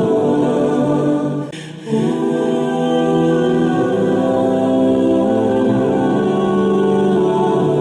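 Background music: a choir of voices singing long held chords, with a brief dip about a second and a half in.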